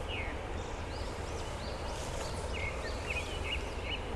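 A few birds chirping in short repeated notes, mostly in the middle of the stretch, over a steady low outdoor rumble and hiss.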